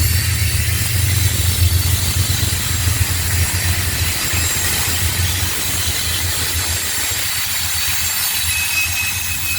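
Train rolling past: a steady low rumble with a high hiss over it, and a thin, steady high-pitched tone coming in near the end.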